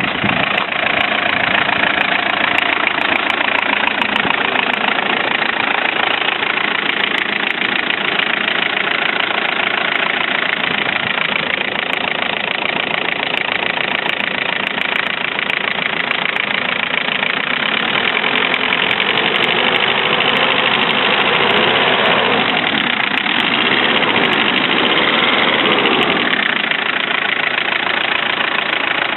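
Range Rover Classic's VM 2.4 four-cylinder turbodiesel idling with a steady diesel clatter just after a cold start. Its pitch briefly swells and falls back near the end.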